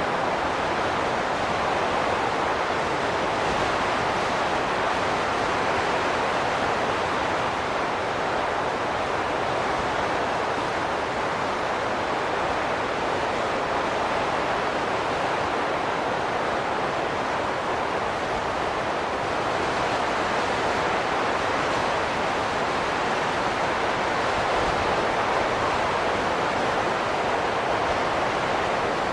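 Steady wind noise, an even rushing that swells and eases only slightly.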